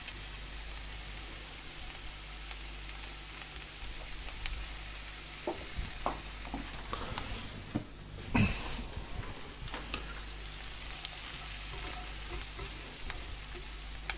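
Peas, smoky bacon and red onion sizzling gently in a frying pan on medium-low heat, with a few scrapes and taps of a spatula as they are stirred. The loudest scrape comes a little after eight seconds in.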